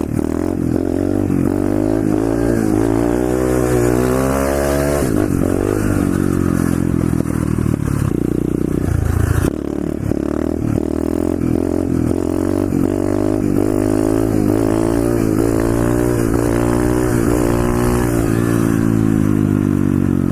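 Pit bike engine running under a rider, revving up and easing off again and again as it is ridden, each rise in pitch followed by a drop.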